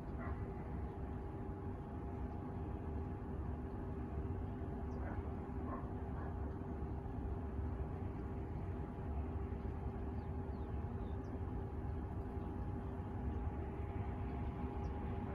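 Outdoor background of a steady low rumble with a constant hum, such as traffic or an engine off in the distance, and faint, sparse high bird chirps.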